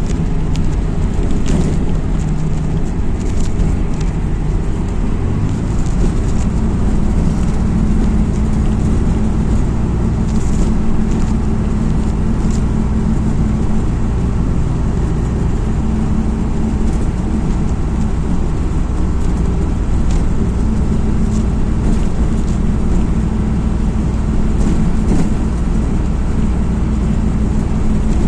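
MAZ-206 city bus heard from inside the cabin while driving: its diesel engine runs steadily under road noise, with scattered light rattles and clicks. About five seconds in, the engine note changes.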